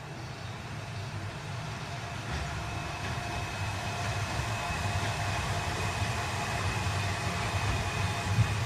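Seibu Railway electric train running, a low rumble with a faint steady whine, growing gradually louder, with a few knocks near the end.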